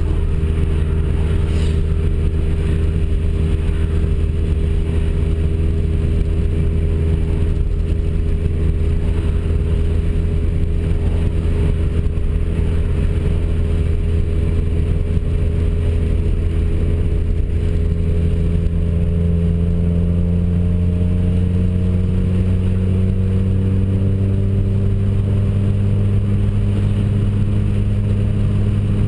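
Volkswagen Gol's engine droning steadily while cruising on the highway, heard inside the car; about two-thirds of the way through its pitch climbs slowly as the car gently picks up speed. Tyre and road noise run underneath.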